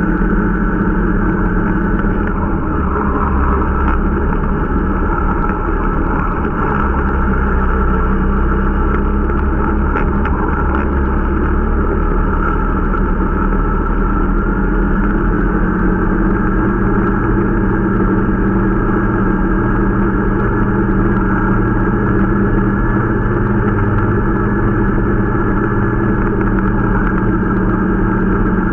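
Irbis Dingo T125 snowmobile's 125 cc four-stroke engine running steadily under way while being run in, its pitch shifting slightly about halfway through.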